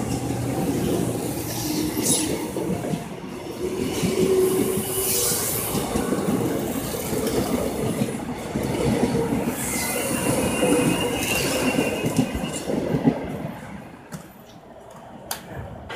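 Korail Line 1 resistor-controlled electric train running on the track: steady running noise and wheel clatter on the rails, with high squealing tones partway through. The sound drops sharply to a quieter level near the end.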